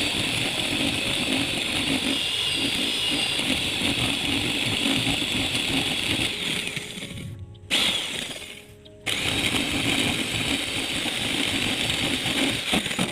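A handheld power tool running under load, a rough, grinding noise that stops abruptly about seven seconds in and starts again about two seconds later.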